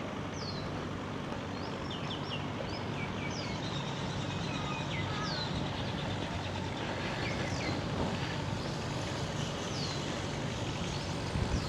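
A distant engine drones steadily while birds chirp in short, quick sweeping notes repeated throughout.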